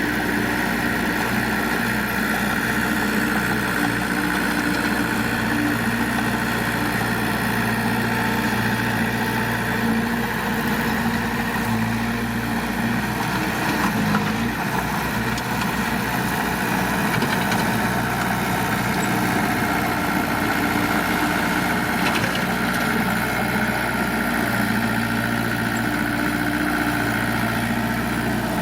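Heavy diesel engine of an earthmoving machine running steadily at low revs, with a brief change in its tone about halfway through.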